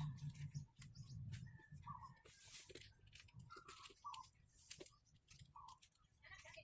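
Near silence with a few faint, short bird chirps and some light clicks.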